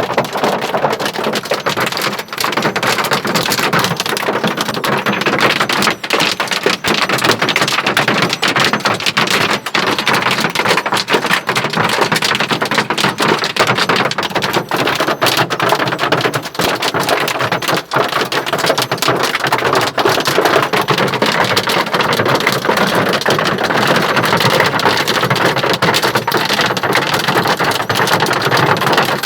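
Hail and rain falling and striking surfaces: a loud, steady, dense patter of many small sharp impacts.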